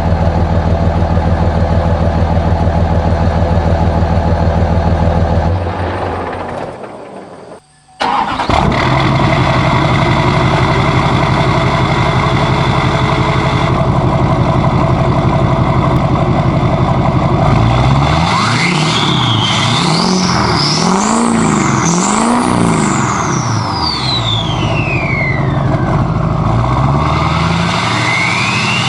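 Straight-piped diesel pickup engines with no mufflers, a 5.9 Cummins and an LBZ 6.6 Duramax. One idles steadily and dies away about seven seconds in. A second idle at a different pitch starts abruptly about a second later, and about ten seconds after that the engine is revved up and down four or five times, with one more rev rising near the end.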